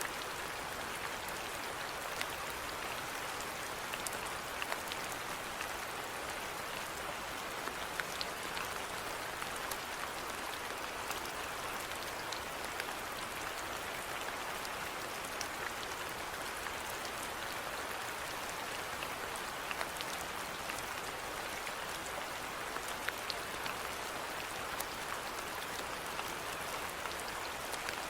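Steady rainfall, an even hiss with scattered individual drops ticking sharply throughout.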